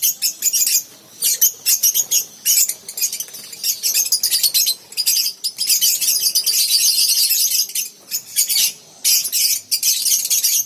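Many lovebirds calling at once: a dense, high-pitched chatter of rapid squeaks and chirps, with brief lulls about a second in and near eight and nine seconds in.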